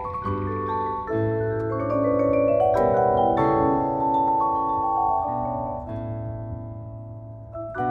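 Drumline front ensemble mallet keyboards playing slow ringing chords over a held low bass note, swelling in the middle, easing off, then striking a fresh chord near the end.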